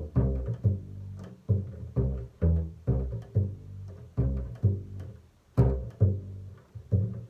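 Double bass played pizzicato: a steady bass line of single plucked low notes, about two a second, each ringing out and fading before the next.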